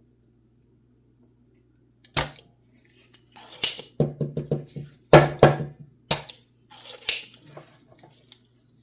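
Spring-loaded solder sucker (desoldering pump) being cocked and fired to pull solder off a circuit board pad: a series of sharp snaps and clicks starting about two seconds in, including a quick run of five clicks midway.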